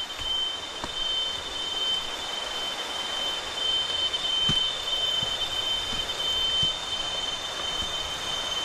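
Cicadas droning in one steady, high-pitched whine over a constant rushing hiss, with a few faint low knocks.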